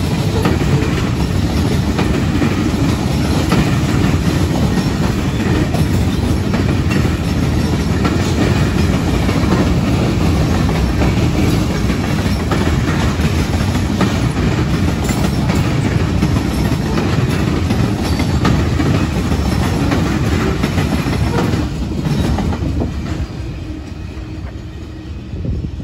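Covered hopper cars of a CSX grain train rolling past close by, their wheels rumbling steadily on the rails. The sound fades from about 22 seconds in as the end of the train goes by.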